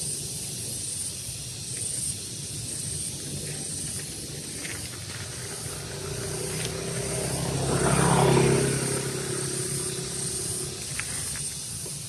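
A motor vehicle passing by, its engine growing louder to a peak about eight seconds in and then fading away. Underneath runs a steady high hiss of outdoor background, with a few brief high chirps.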